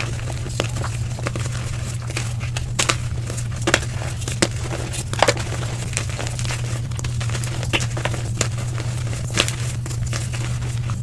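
Gym chalk being crushed, played at double speed: a dense, irregular run of sharp crunches and crackles over a steady low hum.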